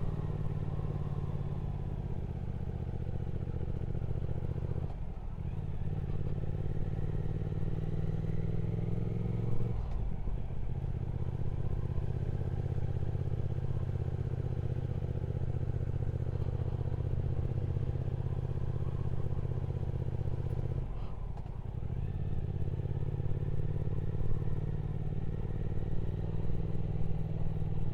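Triumph Speed Twin 1200's parallel-twin engine running under way. Its note climbs slightly at times and drops out briefly three times, about 5, 10 and 21 seconds in.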